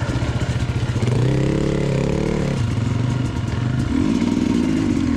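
Motorcycle engine running while riding, revving up about a second in, holding higher for a second and a half, then easing back, with another small rise near the end.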